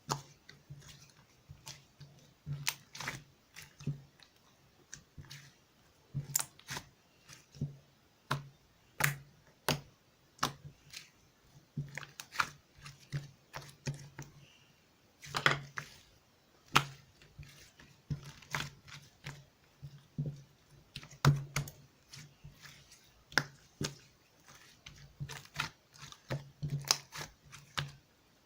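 Light purple stretchy clay slime being squeezed and pressed by hand, giving off irregular sharp clicks and pops, several a second, with a few louder snaps.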